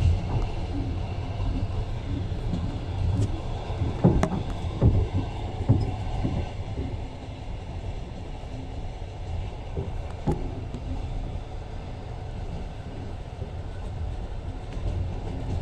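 Passenger train running on the rails, heard from inside the carriage: a steady low rumble of wheels, with a cluster of sharp knocks a few seconds in and another about ten seconds in.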